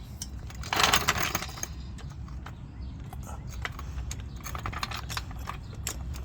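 Light metallic clinks and rattles of tools and parts being handled on a garage floor, with a louder scraping rustle about a second in.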